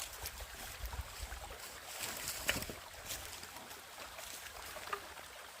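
Water splashing and sloshing, with scattered light knocks; the sharpest knock comes about two and a half seconds in.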